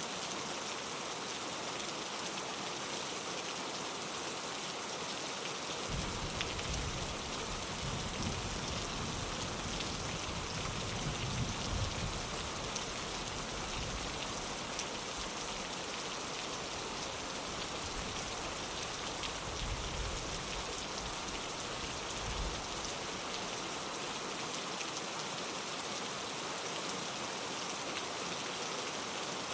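Steady rain on a windowpane, an even patter throughout. About six seconds in, a low rumble of thunder comes in, swells, and fades away about two-thirds of the way through.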